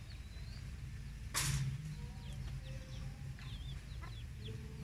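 Small birds chirping faintly, with a brief rustle about a second and a half in, over a low steady rumble.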